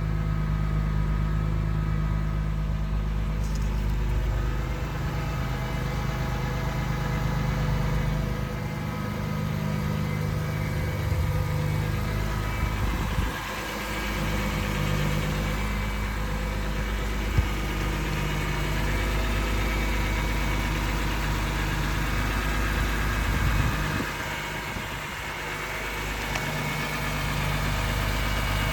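BMW S54 3.2-litre inline-six, swapped into an E30, idling steadily while it warms up after a cold start. The idle sags briefly twice, about 13 and 24 seconds in.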